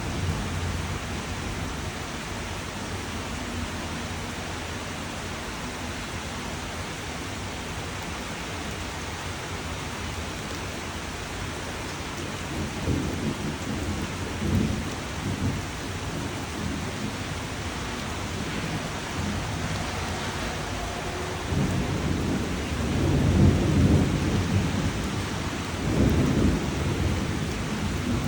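Steady rain falling, with low rolling rumbles of thunder that swell from about halfway through and are loudest near the end.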